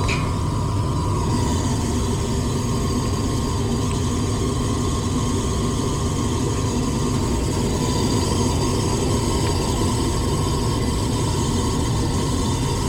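Older gas furnace running, its draft inducer motor humming steadily. The inducer is drawing more than its rated current and sounds horrible.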